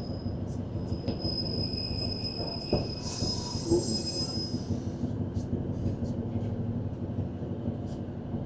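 Interior running noise of a Class 156 diesel multiple unit: a steady low rumble from the train in motion. A thin, high, steady squeal sounds over it for the first four to five seconds, then fades.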